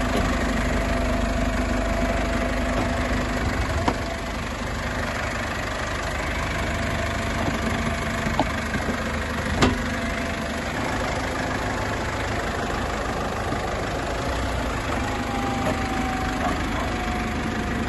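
Engine idling steadily with a low hum, with a few short clicks about four, eight and ten seconds in.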